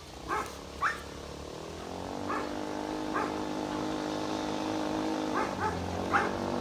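A dog barks in short sharp barks, roughly one a second, over a motor whose steady hum fades in about a second and a half in and holds, dropping lower about five and a half seconds in.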